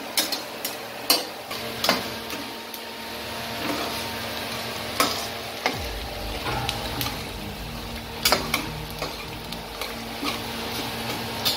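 Chopped onion, garlic and whole spices sizzling in oil in a pressure cooker, with a stirring utensil scraping and knocking against the pot many times. A low rumble comes in about halfway through.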